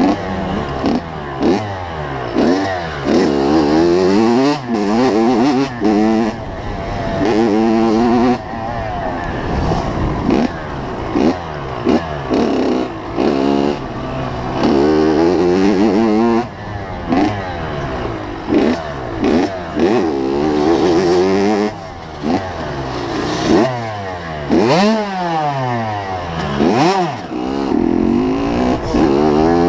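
85cc two-stroke motocross bike engine revving hard, its pitch climbing and dropping back again and again as the throttle is opened and chopped through the gears.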